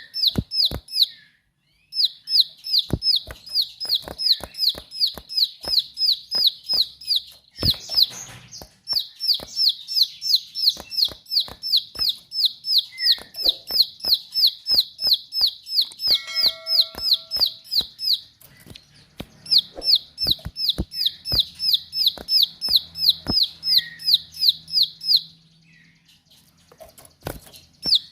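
Prinia (ciblek sawah) singing long, rapid runs of sharp, high repeated notes, about five a second, in several bursts separated by short pauses, with scattered sharp clicks between.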